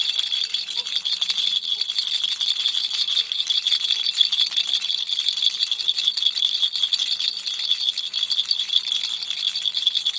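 Baby toy rattle shaken continuously, a dense, fast, even rattle of small beads with no pauses.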